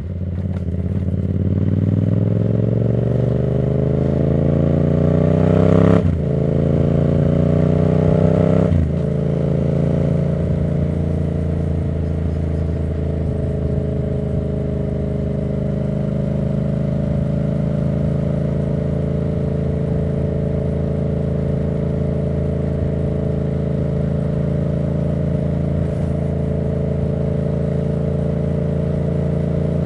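2024 Yamaha MT-07's parallel-twin engine through a Black Widow aftermarket exhaust, accelerating hard with two quick upshifts, about six and nine seconds in, each a sudden drop in pitch. It then settles into steady cruising at an even engine note.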